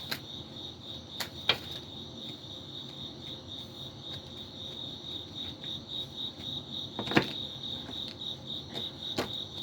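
Crickets chirping in a steady, high, pulsing trill, with a few sharp clicks or taps, the loudest about seven seconds in.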